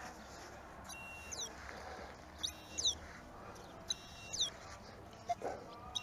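A small bird chirping: short, high calls with quick falling sweeps, repeated about every second and a half, with a few soft knocks among them.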